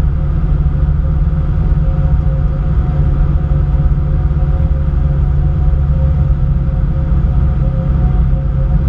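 Cessna 152's four-cylinder Lycoming engine and propeller running steadily: a loud, even low drone with a few steady tones above it.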